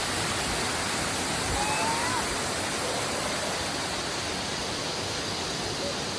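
Large waterfall rushing with a steady, even roar of falling water. A faint short chirp rises about two seconds in.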